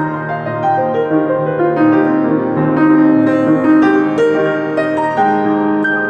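Solo piano improvising, a run of overlapping notes over sustained low chords.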